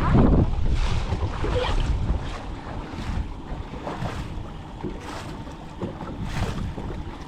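Wind buffeting the microphone: a loud rushing rumble, strongest in the first second or two and then easing to a steadier rush.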